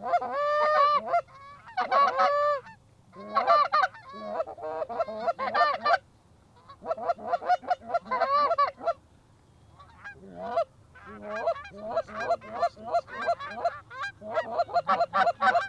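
Geese honking in repeated bursts of short calls, with brief lulls about six and nine seconds in, then a rapid run of honks several a second toward the end.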